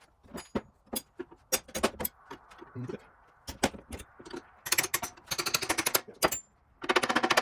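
Hand tools and metal parts clicking and knocking irregularly, turning into a fast run of rapid clicks near the end.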